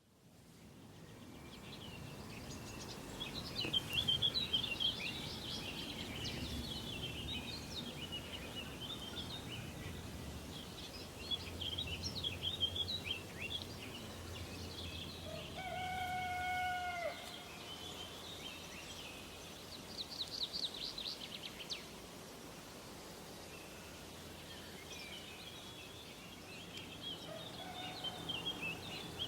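Several songbirds chirping and trilling, with one longer, lower held call about halfway through, over a low steady background rumble. The sound fades in at the start.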